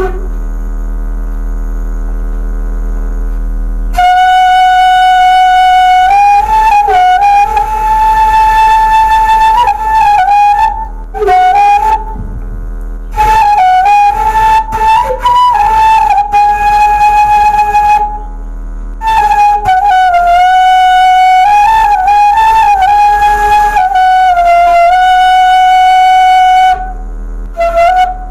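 Bamboo suling flute playing a slow melody of long held notes with small turns of pitch, stopping briefly for breath a few times, played by a beginner. A low electrical hum runs underneath.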